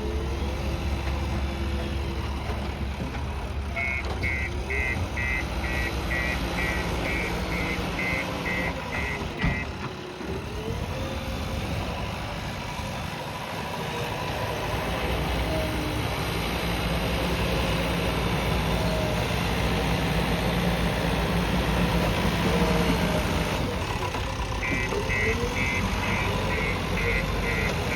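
JCB backhoe loader's diesel engine running steadily. Its reversing alarm beeps about twice a second in two spells: a few seconds in, and again near the end.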